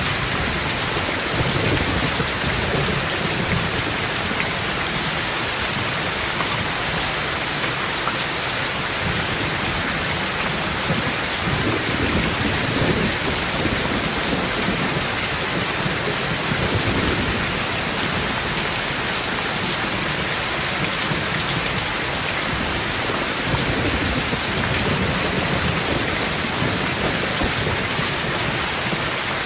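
Heavy rain falling steadily, a dense even hiss, with low rolls of thunder rumbling up several times.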